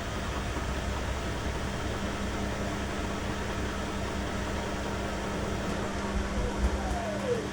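Beko washing machine running: a steady hum over a low rumble, with a short falling whine near the end.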